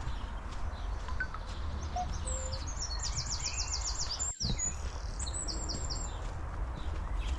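A small songbird sings a fast, high trill of evenly repeated notes from about two seconds in until about six seconds in. Under it runs a steady low rumble, and the sound cuts out for an instant just before the middle of the song.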